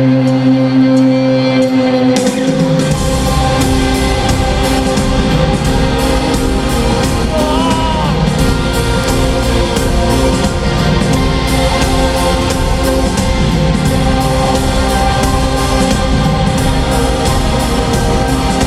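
A rock band plays live through a concert PA. A held opening chord swells, then drums and bass come in about two seconds in with a steady beat, under singing.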